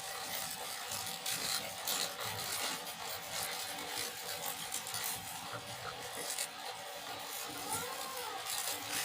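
Mouth-noise crunching from chewing a corn snack, a rapid irregular series of crisp crunches.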